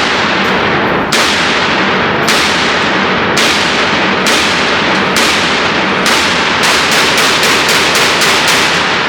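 Gunshots from a firearm at a range: six single shots about a second apart, then a fast string of about ten shots in roughly two seconds near the end.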